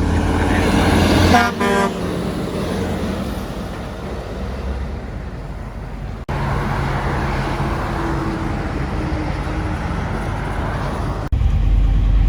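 A passing truck sounds a short horn blast about one and a half seconds in, over steady engine and road rumble from highway traffic. The traffic sound breaks off and changes abruptly twice, about halfway through and near the end.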